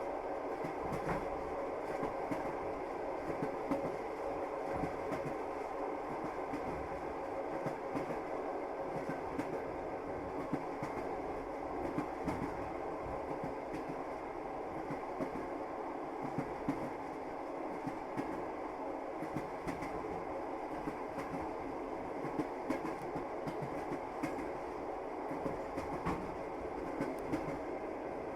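Passenger train running along the track, heard from inside the carriage: a steady rumble with the wheels clacking irregularly over the rails.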